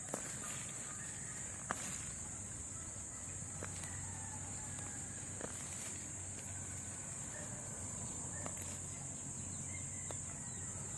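A steady, high-pitched drone of insects such as crickets or cicadas, with scattered faint clicks and snaps.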